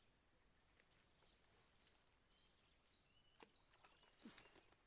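Faint outdoor ambience: a small bird giving a string of short, high chirps over a steady high insect drone, with a few light clicks near the end.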